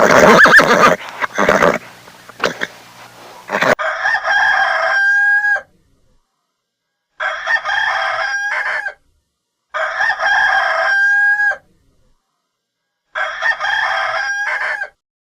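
A rooster crowing four times, each crow about two seconds long and ending in a held note, with pauses between. The first few seconds hold a different loud, rough sound before the crowing begins.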